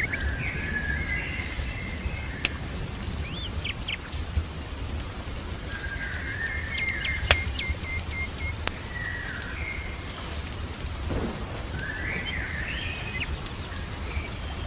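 Ambience of steady rain with a low rumble of thunder underneath, and a songbird singing short warbled phrases over it, including a quick string of repeated notes. Scattered sharp pops, the loudest about halfway through, like a fireplace crackling.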